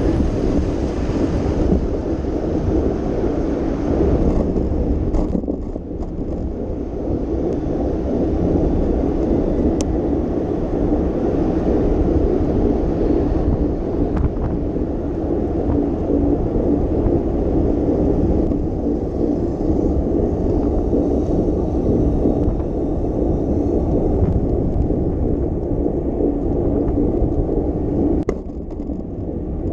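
Steady low rushing of wind on the microphone with the road noise of a bicycle being ridden. It eases briefly a few seconds in and again near the end.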